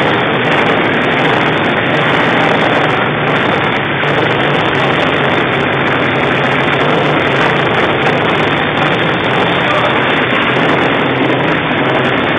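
Honda Titan 150's single-cylinder engine, bored out to 248cc, running at a steady speed with no revving.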